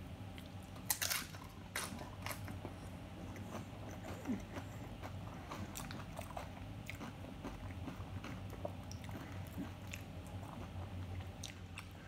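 A person biting into a loaded tortilla chip from a plate of chicken nachos and chewing it, with the loudest crunches about a second in and again near two seconds, then softer crunching and mouth sounds.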